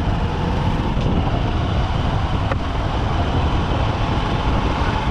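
Honda SP125's single-cylinder engine running steadily under way, mixed with wind rush and surrounding road-traffic noise. A faint brief tick about halfway through.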